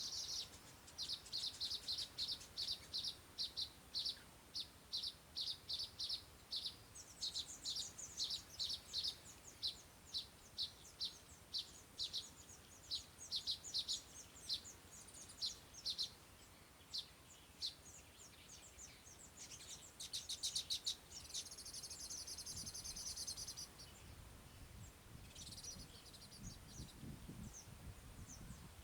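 Small birds chirping: a long run of short, high chirps at about two or three a second for the first fifteen seconds or so, then buzzy trills about twenty seconds in.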